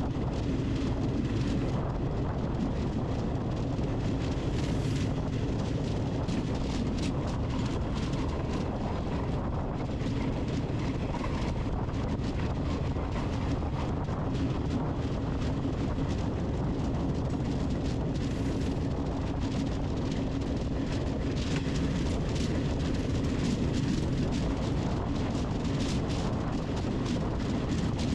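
Quadcopter drone's propellers running steadily: a constant hum with a low rumble underneath.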